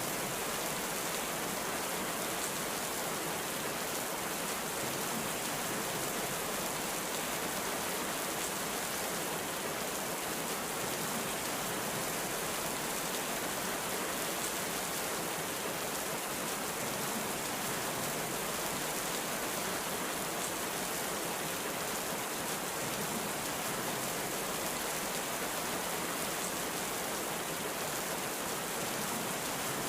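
Heavy rain falling steadily, an even hiss without any thunderclap.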